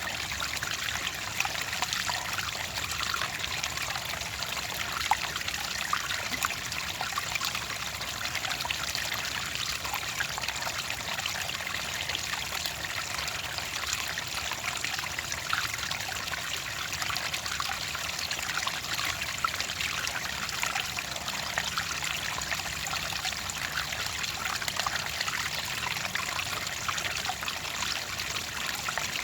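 Water trickling and splashing steadily over stones, a continuous bright babble with many small droplet splashes.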